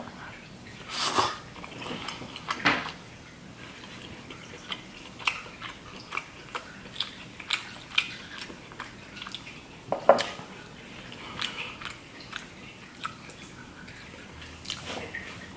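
Chewing of snow crab meat, with many short clicks and crackles as the crab leg shell is picked apart by hand. A few louder bursts come about a second in, near three seconds and about ten seconds in.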